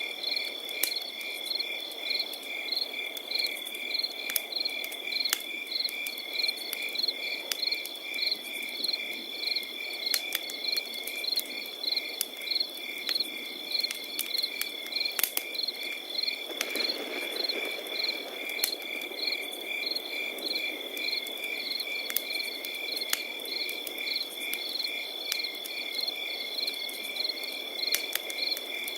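Crickets chirping steadily over a crackling campfire: one continuous high trill with regular pulsed chirps, a few a second, and scattered sharp crackles from the fire.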